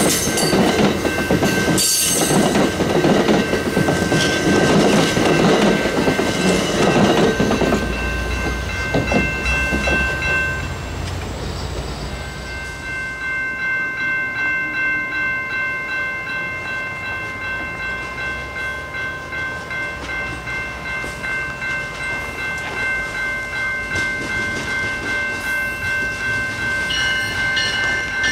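Bilevel commuter coaches rolling past, with a grade-crossing bell ringing. The rumble of the train fades after about eight seconds, leaving the bell ringing steadily in a regular pulse. Near the end an approaching commuter train sounds its horn.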